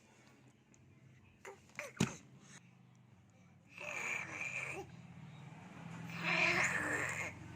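A baby making breathy, wheezy vocal sounds: two of them, about four and six seconds in, the second louder and longer. A sharp knock comes about two seconds in.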